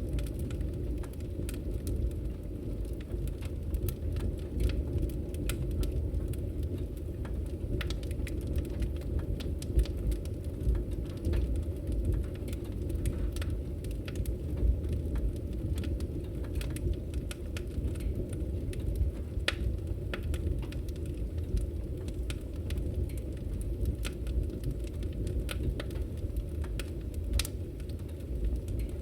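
Wood fire burning: a steady low rumble of flames with frequent, irregular sharp crackles and pops from the burning logs.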